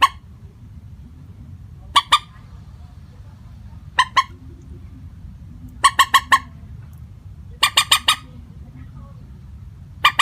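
Common moorhen calling: short, sharp notes in groups of two to four, a group about every two seconds, over a steady low hum.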